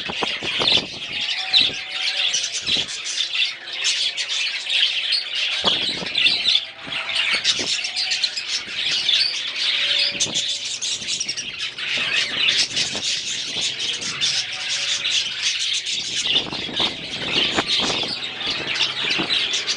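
Budgerigars chattering and squawking continuously in a dense high warble, with scattered sharp clicks.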